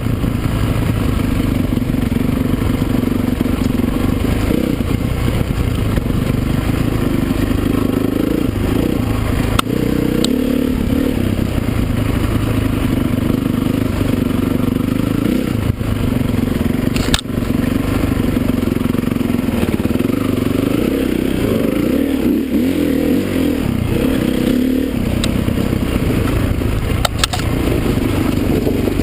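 Motocross dirt bike engines running hard, their pitch rising and falling continuously as the riders rev and shift, with several engines overlapping. A few sharp clicks cut through.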